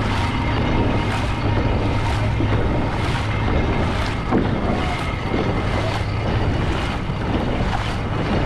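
Dragon boat paddles catching and pulling through the water in a steady rhythm, about one stroke a second, over a continuous wash of water, wind on the microphone and a steady low hum.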